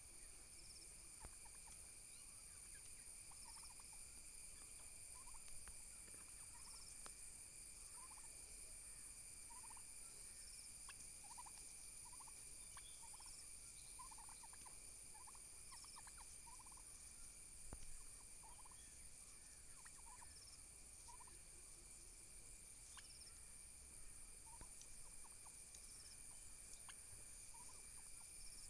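Faint calls from domestic turkeys: short notes repeated roughly once a second, over a steady high-pitched background tone.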